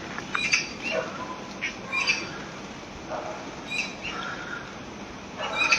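Short bird chirps scattered through a steady hiss of rain falling in the trees.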